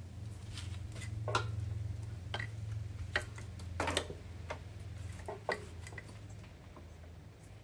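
Scattered light clicks and knocks of tools and small parts being handled during work on the compressor, over a low steady hum that fades near the end.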